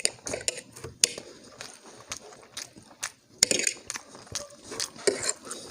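Close-up eating sounds: wet chewing and mouth smacks in irregular bursts, with sharp clicks from a utensil against a plate.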